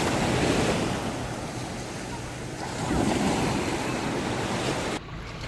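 Surf washing in, with wind buffeting the microphone: two swells of breaking waves about three seconds apart. The sound drops abruptly to a quieter background near the end.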